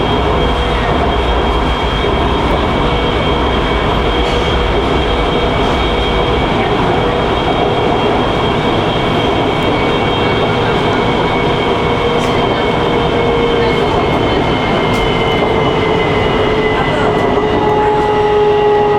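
Wuxi Metro Line 1 train running through an underground tunnel: a steady loud rumble of wheels on rail with a whine from the drive in several tones, which drifts slowly lower in pitch over the second half.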